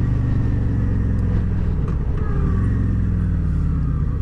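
Motorcycle engine running steadily as the bike is ridden along, a strong low drone whose note dips briefly about two seconds in.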